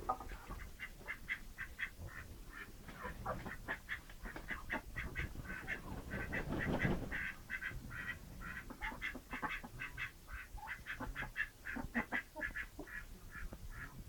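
A flock of domestic ducks quacking: many short calls overlapping, several a second, with no break.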